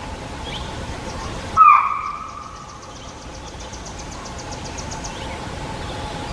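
A deer's alarm call: one loud, short call about a second and a half in that drops in pitch. Behind it runs a fast, even high ticking.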